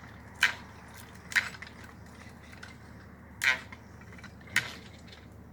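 Pipe wrenches clanking against steel well pipe as the pipe is turned and unthreaded: four sharp metal clanks at uneven intervals.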